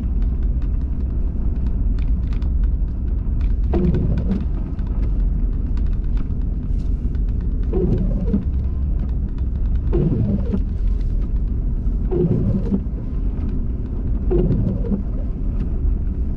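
Steady low engine and road rumble heard inside a car driving through a snowstorm. Over it comes a repeating swish about every two seconds, with scattered light ticks.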